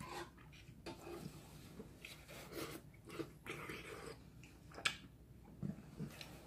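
A man chewing food with quiet, scattered mouth smacks, along with short clicks of chopsticks on a stainless steel bowl; the sharpest click comes about five seconds in.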